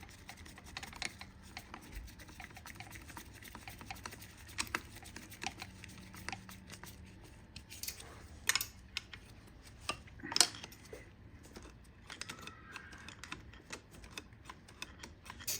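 Scattered light clicks and taps of small parts being handled while the carburetor slide and throttle cable are worked by hand; the sharpest click comes about ten seconds in.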